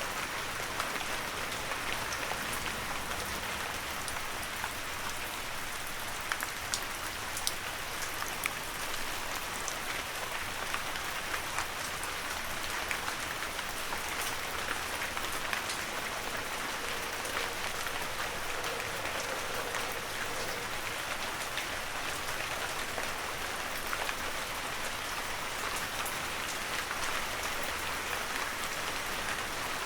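Heavy rain falling steadily, an even hiss with the scattered sharp patter of individual drops.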